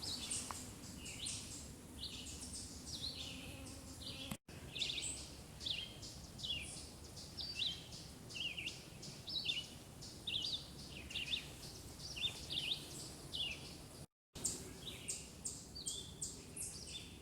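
Several songbirds singing together in a forest, a steady stream of short high chirps and sweeping notes. The sound drops out completely twice for a moment.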